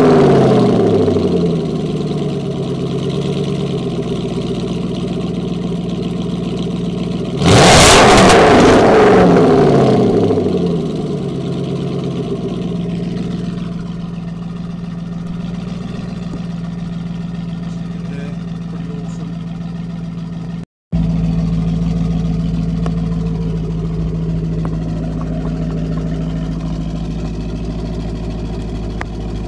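Aston Martin Vantage GT8's 4.7-litre V8 through its exhaust, revs falling from a blip at the start. A second sharp rev comes about seven and a half seconds in and falls back, and then the engine settles into a steady idle.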